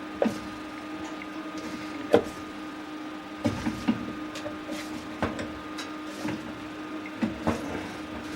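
Plastic agitator parts of a top-loading washing machine knocking and clicking as they are handled and fitted back together, a dozen or so sharp knocks over a steady hum.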